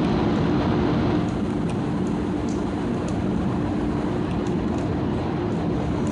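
A stationary Metro-North electric commuter train hums and drones steadily with a constant low tone. A few faint ticks of water dripping onto the wet platform come through on top.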